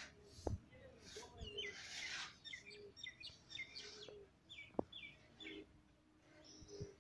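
A small bird chirping a quick run of short, high notes, about three a second, slowing and stopping a little past halfway. A sharp knock about five seconds in is the loudest single sound.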